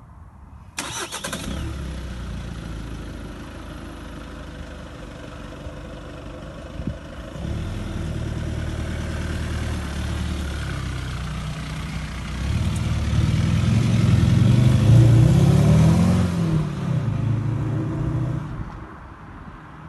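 2015 Volkswagen Golf GTD's four-cylinder turbodiesel starting about a second in, then running. Its engine speed steps up about seven seconds in and rises higher and louder toward a peak before dropping back and cutting off near the end.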